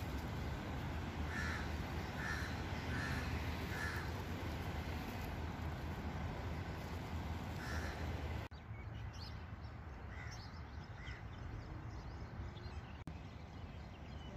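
A bird calling: four short calls about a second apart, another about eight seconds in, and two fainter ones later. Underneath is a steady low rumble that drops suddenly about eight and a half seconds in.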